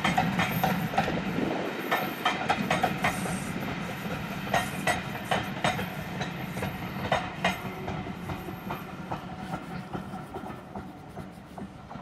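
Railway passenger coaches rolling past, their wheels clattering over rail joints in irregular clicks over a low rumble. The sound fades as the end of the train draws away.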